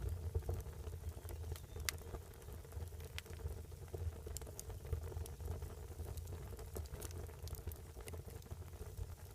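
Fire burning, crackling with scattered sharp pops over a low steady rumble.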